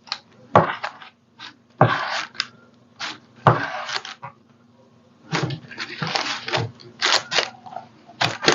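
Irregular taps, clicks and rustling from things being handled on a desk, busier in the second half.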